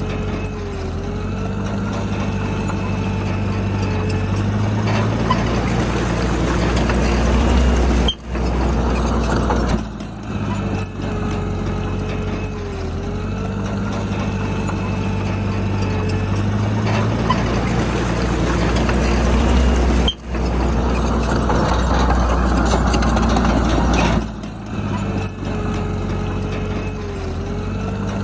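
Heavy diesel engine of earthmoving machinery running steadily, the sound building under load over several seconds at a time, with two brief sharp dropouts about 8 and 20 seconds in.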